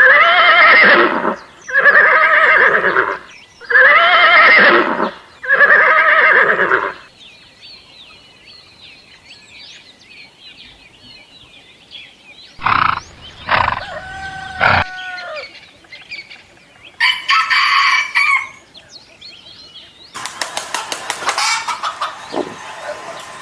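A series of farm-animal calls: four loud, drawn-out calls about two seconds apart, then faint bird chirping, then a few more calls and a noisier stretch near the end.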